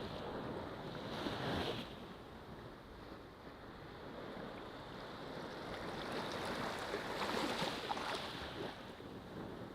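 Ocean surf washing onto a beach: waves swell and break about a second in and again from about six to eight seconds, with a steady wash of water between.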